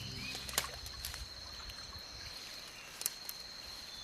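Faint rainforest waterside ambience: water trickling and lapping, with a steady high insect tone and two sharp clicks, one about half a second in and one near three seconds. A low sustained note fades out in the first second.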